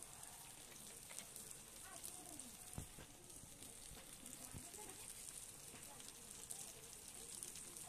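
Spice paste (masala) frying in oil in a wok, a faint steady sizzle with fine crackling, as it is stirred with a metal spatula, with a couple of soft knocks.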